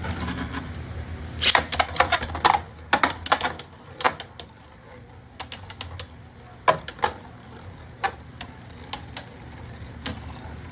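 Two Beyblade Burst spinning tops clacking against each other and the plastic stadium in a battle. A dense flurry of hard clicks comes in the first few seconds, then scattered single hits, with a low spinning whir at the start that fades.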